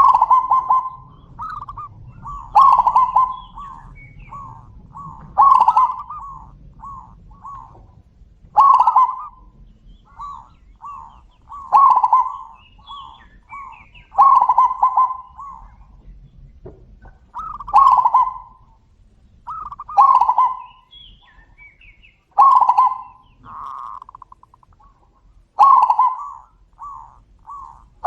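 Zebra doves (perkutut) cooing. A loud phrase comes roughly every three seconds, about ten in all. Each phrase is a strong first coo followed by a run of softer, quick coo notes.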